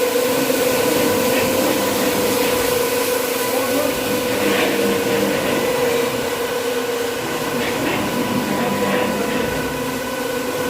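Industrial carpet-washing machinery running steadily, a continuous motor hum with a constant tone over a noisy whir.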